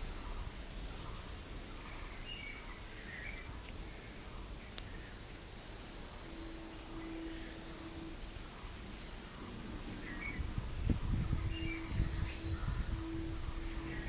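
Outdoor ambience with birds calling: a short falling call repeated every few seconds among scattered chirps. A steady low hum comes in about halfway through, and a low rumble follows near the end.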